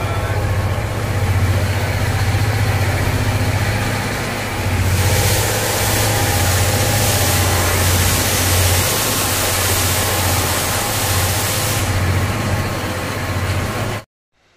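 Passenger coach of a steam-hauled train pulling slowly out of a station, heard at its side window: a steady low hum under rumbling running noise, with a loud hiss from about five seconds in to about twelve. The sound cuts off suddenly near the end.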